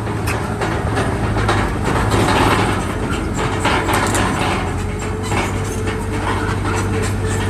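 Bulldozer diesel engine running under load, with the steel crawler tracks clanking in a dense, irregular clatter as it moves.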